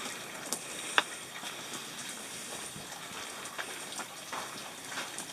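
Rain pattering and dripping in woods: a steady hiss with scattered sharp taps, one louder tap about a second in.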